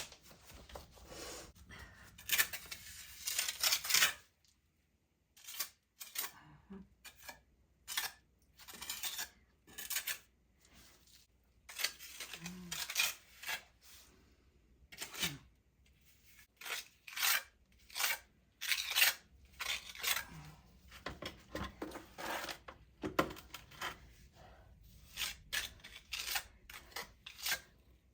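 Steel trowel scraping and smearing wet repair mortar, a quick run of short, uneven strokes with metallic scrapes and clinks, broken by a brief pause about four seconds in.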